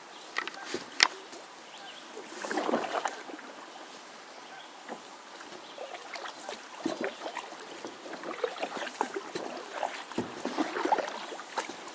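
Kayak paddle strokes swishing and splashing in the water, with scattered drips and light knocks, and one sharp knock about a second in.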